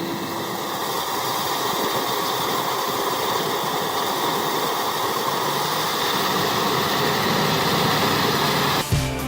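Heavy engine-driven forestry machine running steadily, a dense even mechanical noise. Rhythmic guitar-and-drum music cuts in near the end.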